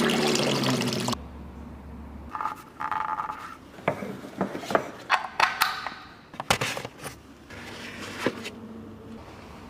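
Water running or pouring, cutting off about a second in, followed by scattered clinks, knocks and scrapes of hard objects being handled.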